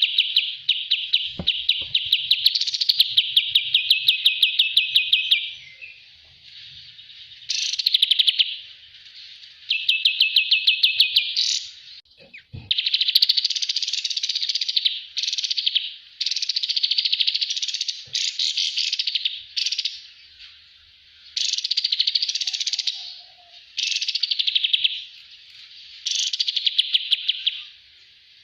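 Kapas tembak songbird singing: fast, rattling chattering trills, each phrase lasting one to several seconds, repeated over and over with short pauses between.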